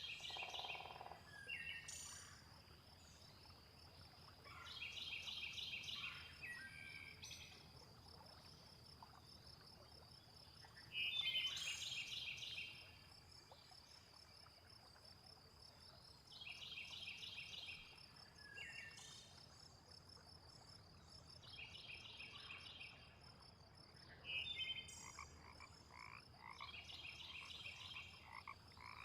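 Frogs croaking in a nature soundscape: a rapid pulsed call lasting about a second, repeated every five to six seconds. Under it runs a steady high insect-like hum, with a few short bird chirps between the calls.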